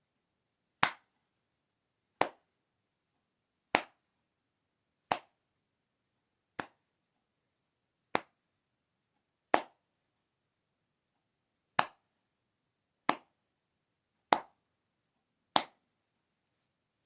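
Eleven sharp single clap-like impacts, about one every one and a half seconds, each cut short and dying away quickly, with the fifth one softer.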